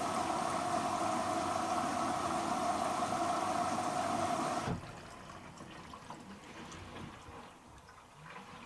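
Hoover H-wash & dry 500 washer dryer taking in water: a steady rushing of mains water through the inlet valve and detergent drawer, with a steady tone in it, which stops abruptly a little before halfway as the valve closes.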